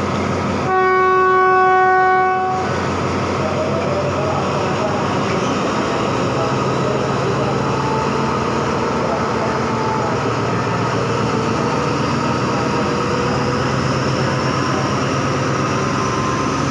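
Train horn sounding one long blast of about two seconds, starting just under a second in, followed by the steady running noise of the train with a low engine drone.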